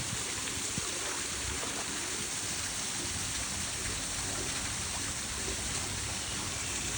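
Steady rush of a spa pool's waterfall, water pouring down into the pool.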